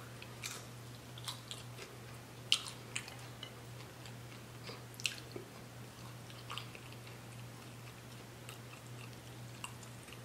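Close-miked chewing of tender rotisserie chicken: soft wet mouth clicks and smacks at irregular moments, the sharpest about 2.5 and 5 seconds in, over a faint steady low hum.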